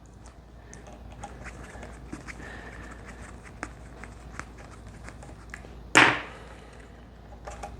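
Scattered small clicks and taps of guitar electronics and hardware being handled during disassembly, over a faint steady hum, with one short, louder noisy burst about six seconds in.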